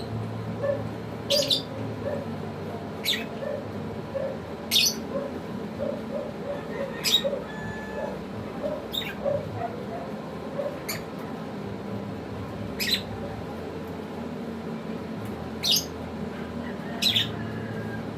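African lovebirds calling: short, sharp, high-pitched squawks repeated about every one to two seconds, around ten in all.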